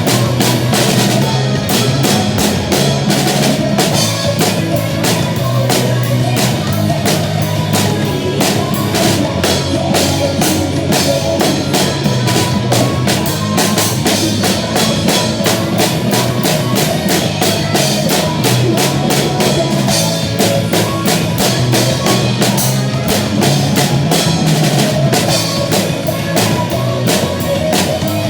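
Drum kit played to a rock backing track: a steady, fast beat of bass drum, snare and cymbals over a continuous bass line.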